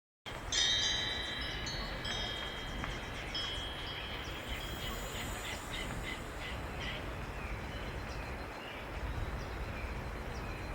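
High ringing chimes over a steady outdoor hiss, with short high bird chirps in the middle.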